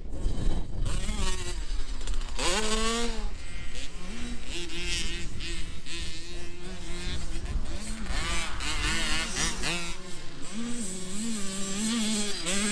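Small dirt bike engines buzzing around a motocross track, revving up and down in waves as the riders accelerate and back off.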